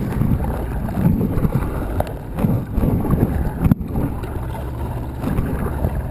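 Wind rumbling on the microphone over water sloshing around a kayak on the move, with a few short knocks.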